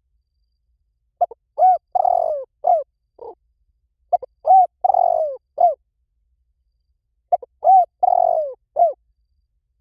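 Spotted dove cooing: three identical phrases of several arched coo notes with a longer, rougher note in the middle, about every three seconds, with complete silence between phrases, as in a repeated recording used as a decoy call.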